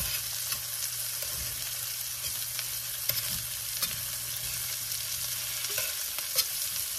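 Flour-dredged pheasant pieces sizzling steadily as they brown in hot oil in a stainless steel sauté pan. Metal tongs click against the pan a few times as the pieces are turned over.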